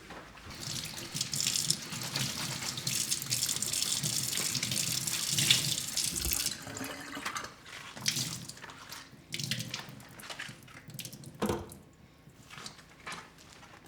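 Kitchen tap running into the sink for about six seconds, then shut off, followed by lighter splashing and handling sounds and a single knock near the end.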